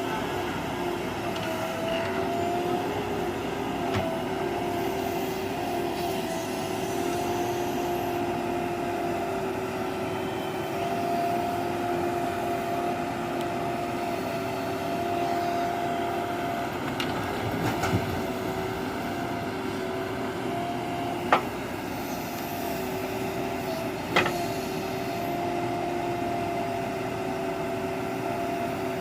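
Heavy vehicle's diesel engine running steadily with a constant whine, and three sharp knocks in the second half.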